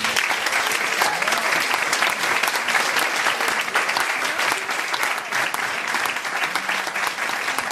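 Audience applauding after a song ends, dense clapping that carries on steadily without a break.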